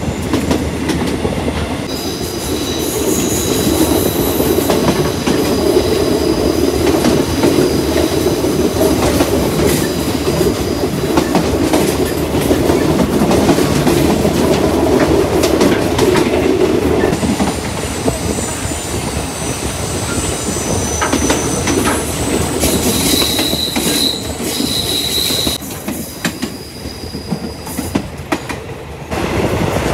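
Passenger train running on the rails: a steady rumble with scattered clicks from the wheels. A high-pitched wheel squeal comes in a couple of seconds in and again past the middle, loudest shortly before a quieter stretch near the end.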